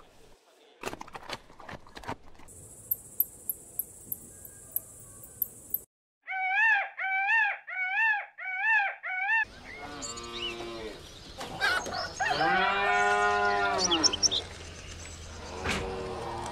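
Chewing clicks from a giant panda eating bamboo. Then a high steady hiss with faint ticks, and a peacock calling about six times in quick succession, each call rising and falling. From about ten seconds in, cattle mooing, several long moos overlapping.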